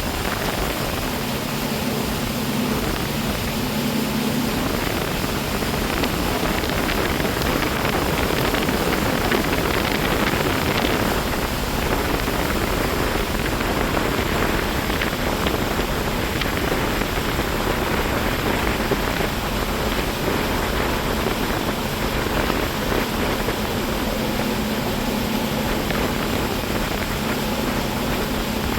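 Motorboat under way: a steady rush of wind and water noise, with the boat engine's low hum coming through for a few seconds near the start and again near the end.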